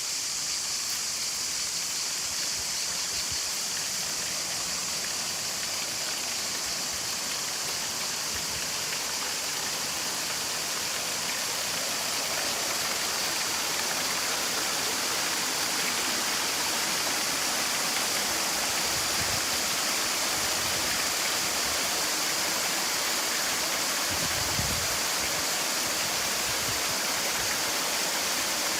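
Water of the Platanistos stream rushing over the Platanistou waterfall: a steady hiss of running water that grows slightly louder about halfway through.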